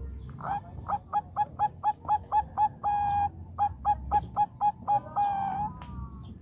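Zebra dove cooing: a run of short, evenly spaced notes, about four a second, broken by a longer held note partway through and ending on another longer note.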